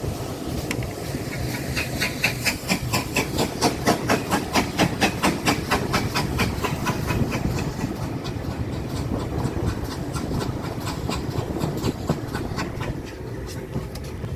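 Train running on the rails: a steady low rumble with a quick regular clatter of wheel clicks, about three a second, which is strongest in the first half and thins out later.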